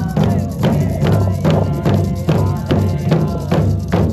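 Drum circle playing: hand drums and percussion struck in a steady beat, about two to three strikes a second, with voices singing over the rhythm.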